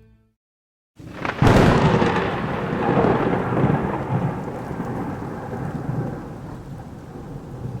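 A thunderclap in a rainstorm: a sudden loud crack about a second and a half in, then a long rolling rumble that slowly fades under the steady hiss of rain.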